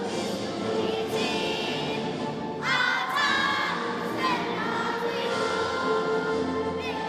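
Music with a choir of voices singing; the voices come in stronger about two and a half seconds in.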